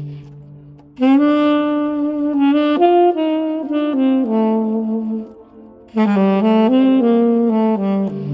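1974 Selmer Mark VI alto saxophone, freshly overhauled, being played: a held low note fades out, then two phrases of quick separate notes with a short break between them, the second coming to rest on a low note near the end.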